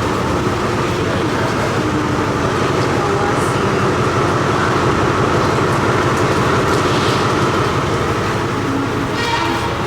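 Train running with a steady rumble and hiss, faint voices mixed in.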